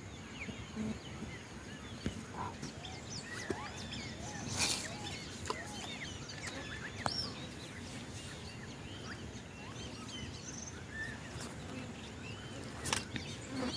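Several wild birds calling at once: many short chirps and whistles overlapping. There is a brief noisy burst about four and a half seconds in and another near the end.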